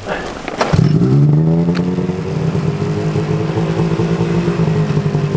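Arctic Cat snowmobile engine starting. It catches under a second in, revs up briefly, then settles into a steady idle.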